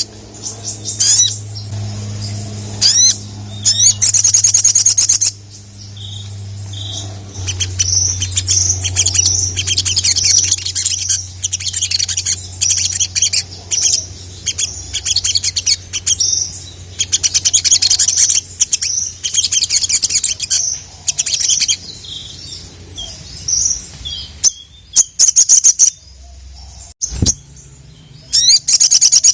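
Brown-throated sunbird (sogok ontong) singing: bursts of rapid, high, sharp chirps and trills. A low steady hum runs underneath for most of it.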